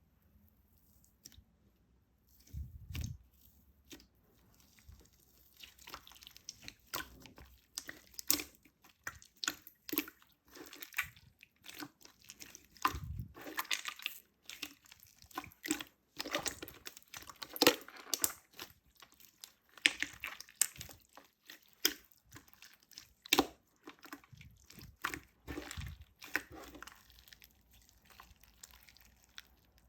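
Slime being squished and poked by hand: a run of sticky clicks and wet pops, several a second, with a couple of dull thumps.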